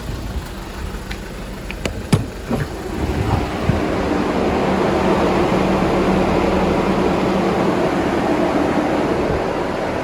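A few clicks, then about three and a half seconds in a steady drone with a low hum comes up and holds: the Hyundai Porter II's freezer refrigeration unit running, set to cool down to −40.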